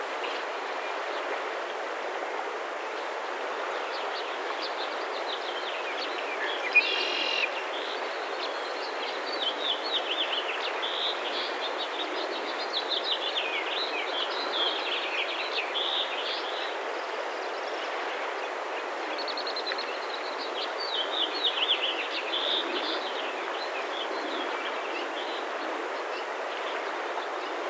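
Small birds singing in short, high trilling phrases over a steady outdoor hiss, with one louder brief call about seven seconds in.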